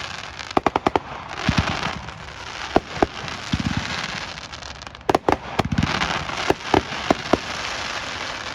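Consumer crossette fireworks going off: dull thuds about every two seconds, with many sharp cracks as the shells break and split, and hissing in between.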